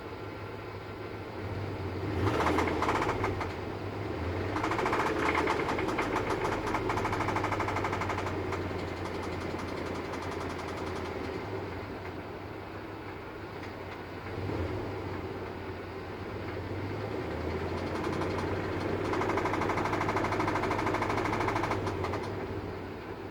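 2003 5.7 Hemi V8 running, brought up in speed three times and dropping back to idle between, with a rapid knock through it. The owner cannot tell whether the knock is a rod knock or a lifter, and notes it is not constant the way a rod knock he had before was.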